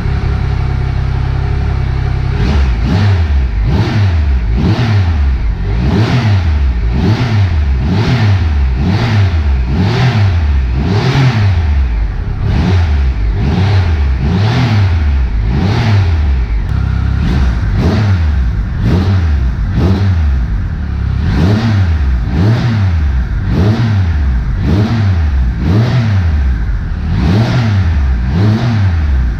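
Triumph Trophy SE's 1215 cc inline-three engine running through a Remus titanium exhaust with its baffle removed. After about two seconds it is revved up and down over and over, about once a second.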